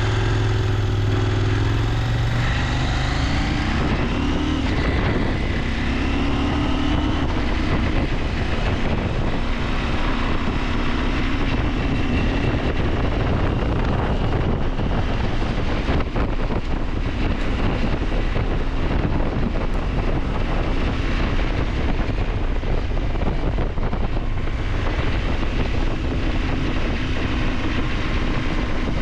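KTM 890 Adventure's parallel-twin engine running under way, its pitch rising and falling with the throttle, with wind noise over the microphone.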